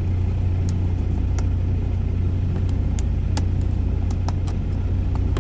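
Steady low rumble of a semi truck's idling engine heard inside the cab, with scattered light clicks and taps.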